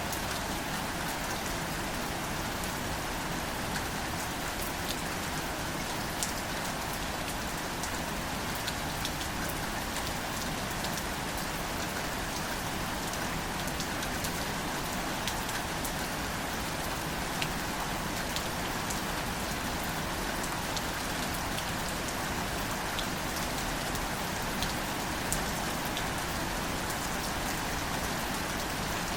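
Gentle, steady rain falling on greater celandine wildflowers, with scattered single drops ticking close by.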